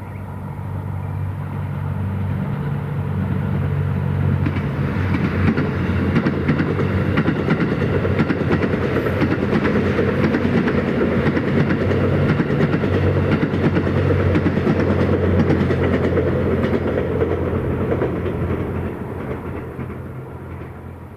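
JR West Series 87 Twilight Express Mizukaze diesel railcar train passing: its diesel engine hum grows louder as it approaches. As the cars go by, the wheels clack rapidly over the rail joints, then the sound fades away near the end.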